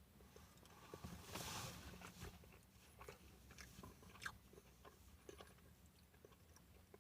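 Faint chewing of breaded chicken fries: soft scattered mouth clicks and light crunches, with a brief soft hiss between about one and two seconds in.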